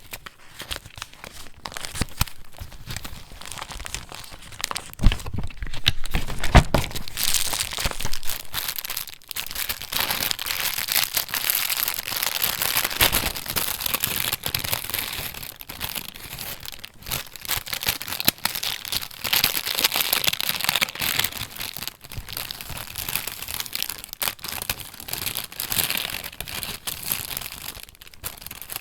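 Paper pages of a handmade junk journal being handled and turned, with continuous rustling, crinkling and crackling. A few sharper knocks come about five to seven seconds in, and the rustling grows busier after that.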